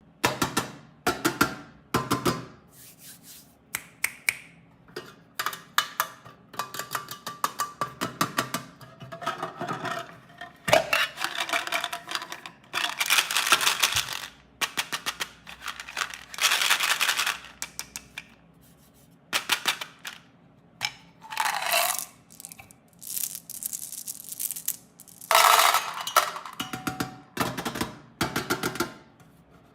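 Snack packaging being handled and unwrapped: plastic wrappers crinkling and rustling in bursts, with sharp clicks and clatters between them.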